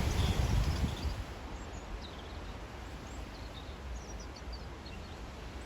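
Wind buffeting the microphone, a low rumble that is strongest in the first second and then eases. Over it come faint, scattered chirps and twitters of a bird's quiet subsong.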